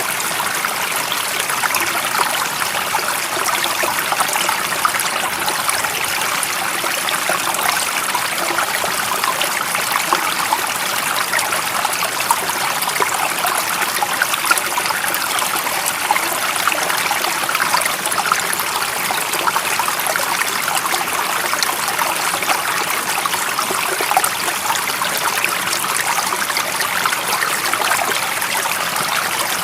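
Stream water running and trickling steadily, a dense splashing hiss that is strongest in the middle and upper range.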